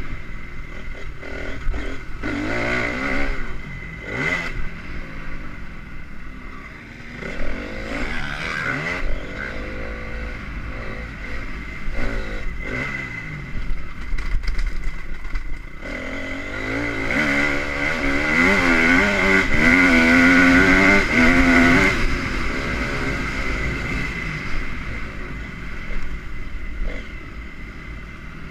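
Honda CRF250R motocross bike's single-cylinder four-stroke engine revving up and down, loudest for a long stretch about two-thirds of the way through.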